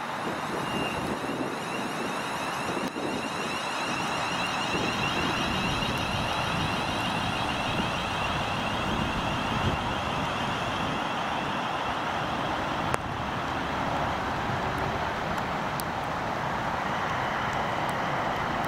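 Train running through the station: a steady rush of wheel and running noise with a faint high-pitched whine.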